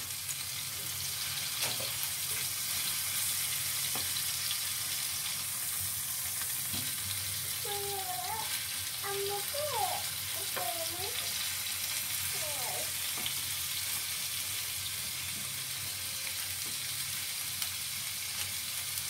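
Chicken and vegetable skewers sizzling steadily as they fry in oil in a pan.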